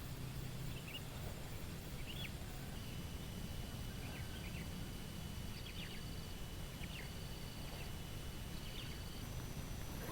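Outdoor ambience: scattered short bird chirps over a steady low rumble, with a thin, steady high-pitched tone running underneath.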